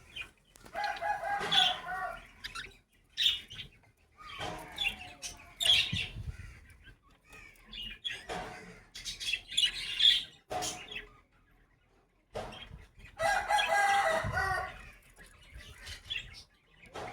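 Budgerigars chirping and chattering, with wing flapping. Twice a longer, louder pitched call stands out.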